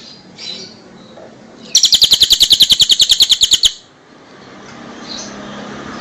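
Songbird giving a loud, fast trill of sharp repeated high notes, about a dozen a second for roughly two seconds, after a few softer chirps.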